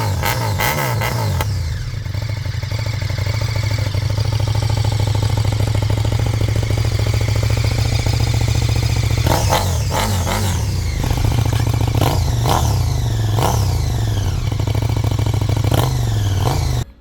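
Brabus 1300R motorcycle's V-twin engine running: a few quick throttle blips at the start, then a steady idle, then a series of sharp revs, each rising and falling, from about halfway through. The sound cuts off suddenly just before the end.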